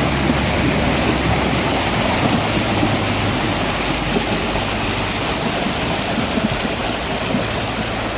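Loud, steady rushing of stream water as a logging truck fords it, with the truck engine's low hum running underneath.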